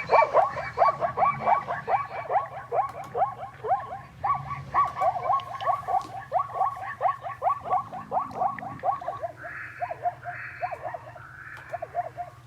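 Recorded zebra call played back: a long run of quick, yelping barks, several a second, with a couple of short breaks, and breathy gasps between the last few barks.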